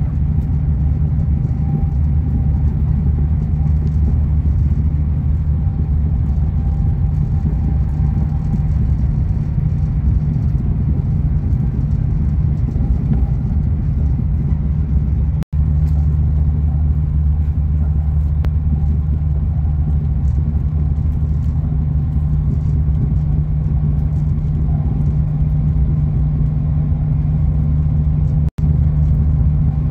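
Steady low rumble of a high-speed train running at speed, heard from inside the passenger cabin. The sound cuts out for an instant twice, about halfway through and near the end.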